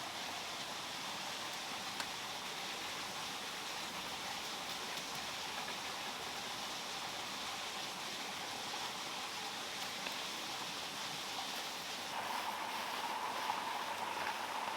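Steady rush of running water. About twelve seconds in, a faint steady humming tone joins it.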